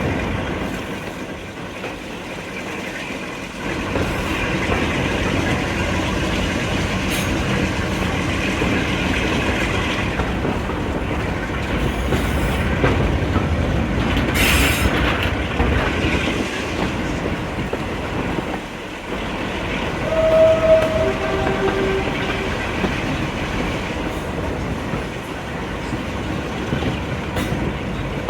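A train running along the track, its wheels clattering over the rail joints, getting louder a few seconds in. About twenty seconds in, a horn sounds two short notes, a higher one and then a lower one.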